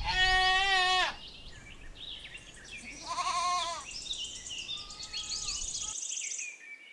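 Young goat kid bleating: one long loud bleat at the start, a second bleat about three seconds in, and a fainter one near five seconds.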